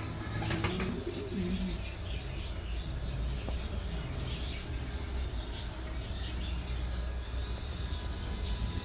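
Pigeons cooing, with short chirps of small cage birds and occasional wing flaps over a low rumble.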